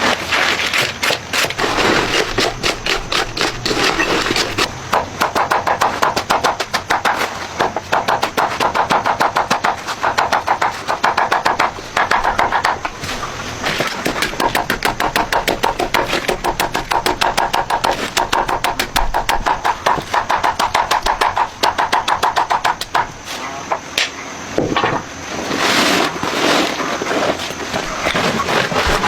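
A fast, continuous run of sharp knocks or clacks, many a second, with a short break near the end.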